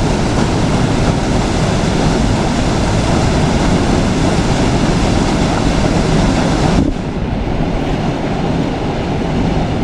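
Steady rush of a fast-flowing river, a loud even noise with no break. About seven seconds in it changes abruptly to a duller rush with less hiss.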